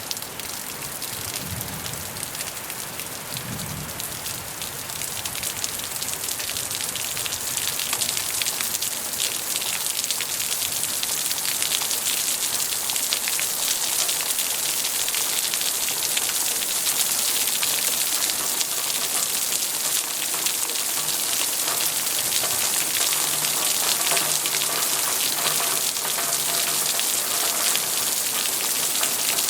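Steady rain falling, a dense hiss of many fine drop impacts. It grows heavier over the first several seconds, then holds steady.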